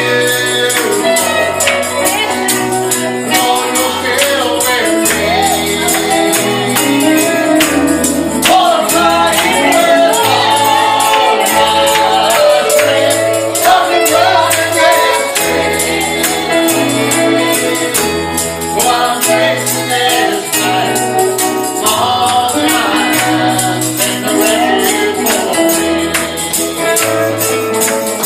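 Live gospel music: voices singing over a tambourine shaken in a steady rhythm and a stepping bass line.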